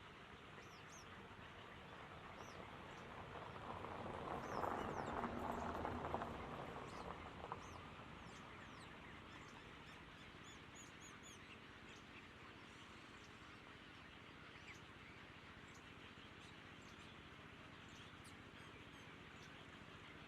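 Small birds giving short, high chirps, scattered all through, with a broad rush of noise that swells and fades about five seconds in.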